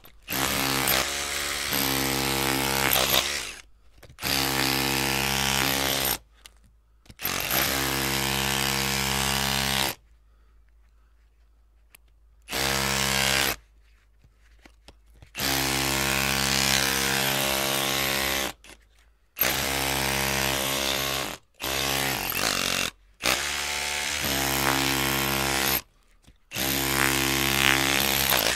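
Electric drill running in repeated bursts of a steady whine, each lasting a second to a few seconds, stopping and starting again about nine times with short silent gaps between.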